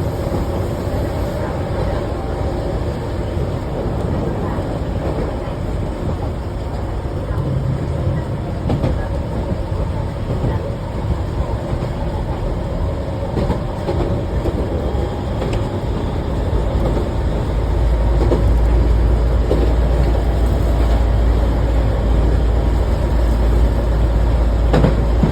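Keihan Ishiyama-Sakamoto Line electric train running on the rails, a steady rumble with occasional clicks. A deep low rumble swells louder about two-thirds of the way through.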